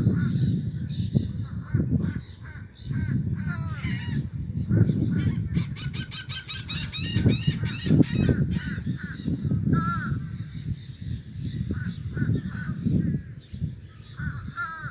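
A flock of wild parrots squawking and chattering in rapid short calls, busiest in the middle, over a steady low rumble.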